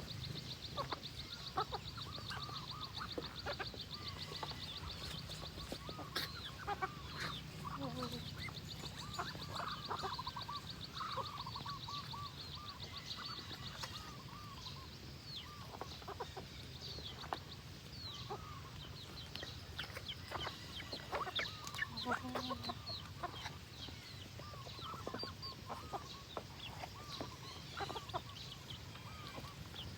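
Farmyard poultry calling in many short, scattered clucks and calls over a steady low hum, with a fast high-pitched buzzing trill during the first few seconds.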